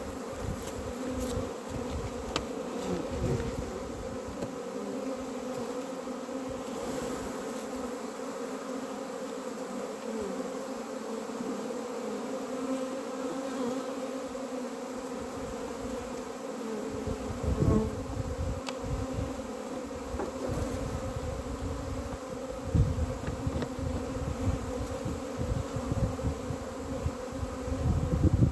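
Honeybees buzzing around a beehive in a steady, continuous hum, with a few low thumps about 18 s in and near the end.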